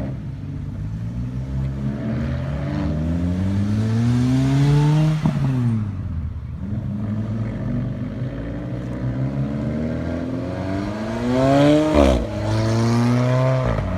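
Car engines accelerating past at speed, twice. Each time the engine note climbs and then drops sharply as the car goes by: once about five seconds in and again near twelve seconds.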